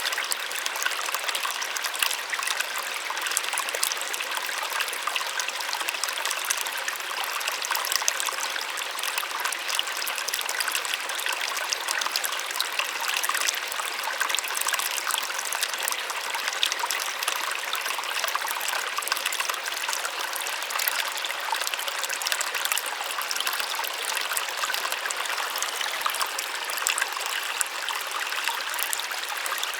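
Small waterfall splashing steadily, a soft rushing with fine, bright spattering of water and little low rumble.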